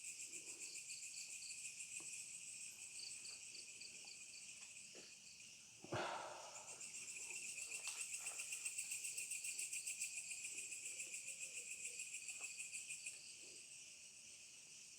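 Night insects, crickets among them, trilling steadily at a high pitch, with a fast pulsing chirp that sets in from about seven seconds in and stops near thirteen seconds. A single sharp knock sounds about six seconds in.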